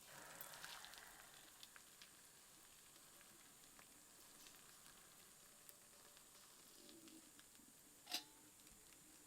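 Near silence, with a faint hiss in the first second, scattered faint ticks, and one sharp click about eight seconds in.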